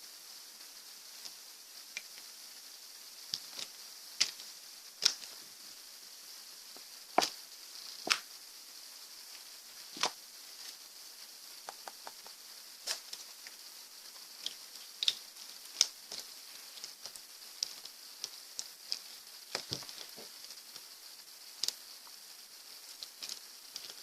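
Slime being pressed and worked by hand, giving irregular small pops and clicks, a few of them louder, over a faint steady hiss.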